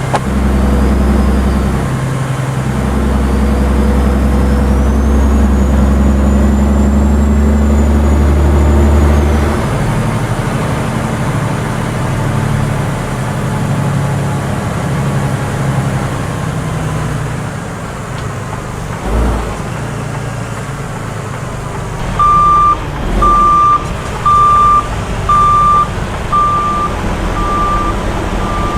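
Truck engine running steadily, louder for the first ten seconds or so, with a thump about two-thirds of the way through. Near the end, a reversing beeper sounds a loud, evenly spaced beep a little more than once a second.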